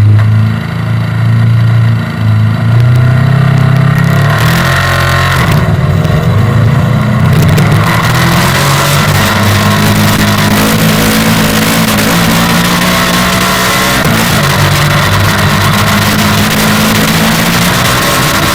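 A 500 cc kart cross engine running hard, its pitch rising and falling as it revs, with loud rushing noise joining it from about four seconds in.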